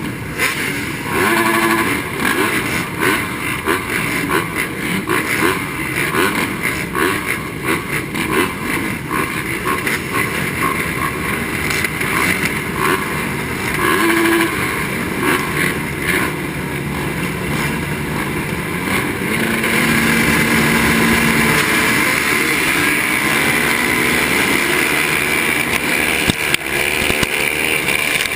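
Honda 450 motocross bike engine revving hard, its pitch rising and falling rapidly with the throttle. About twenty seconds in it settles into steadier, slightly louder running.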